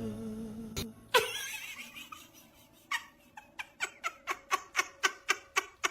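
Background music ends just under a second in, followed by a single sharp sound. From about three seconds, a person laughs in a quick run of short, evenly spaced bursts, about four a second.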